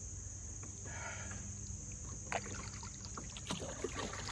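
Water sounds around a kayak sitting in a shallow creek, with a few light knocks against the hull near the end.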